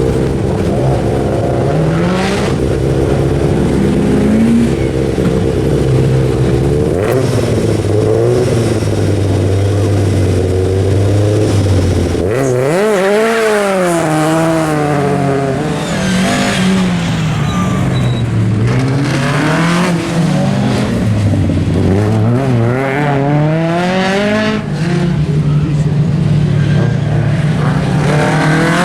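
Group B rally car engine at high revs, its pitch climbing and dropping again and again as it accelerates and changes gear.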